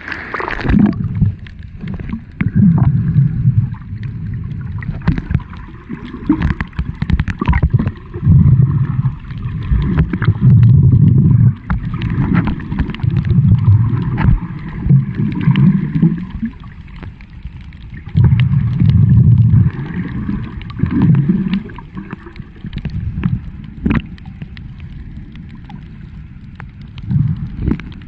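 Muffled underwater sound of sea water moving and gurgling, in uneven low surges with scattered sharp clicks.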